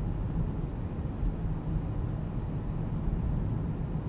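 Steady low noise of a car driving, picked up by a camera mounted outside on the hood: wind on the microphone mixed with tyre and engine noise.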